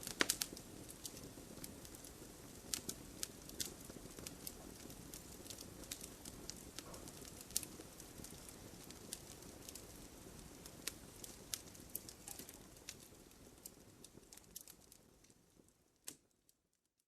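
Wood fire burning in a fireplace: the logs crackle with frequent sharp snaps and pops over the low steady noise of the flames. The fire sound fades away near the end after one last pop.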